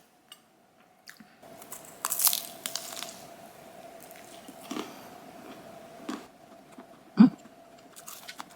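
Biting into a twisted doughnut with a crunchy chocolate coating and a vegetable-cracker topping: a loud crisp bite about two seconds in, then crunchy chewing with a few smaller crunches.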